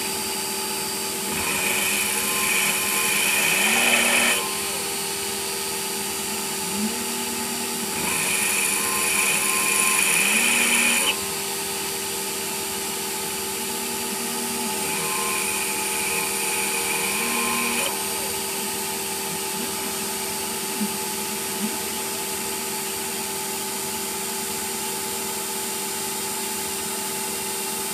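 CNC lathe turning a part: a steady machine hum, broken three times by louder passes of about three seconds each where the tool cuts, with short rising whirs in between.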